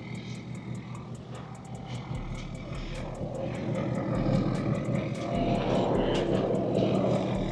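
Motor vehicle engine running with a steady drone that builds in loudness a couple of seconds in, then holds.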